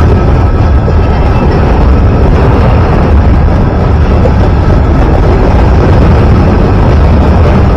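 Train running past at close range: a loud, steady rumble.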